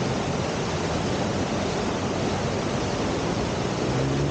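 Steady rush of river water pouring over the standing surf wave.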